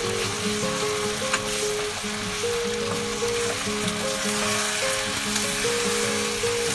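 Korma frying in oil in a pan, a steady sizzle with a few light clicks, over background music with a simple stepping melody.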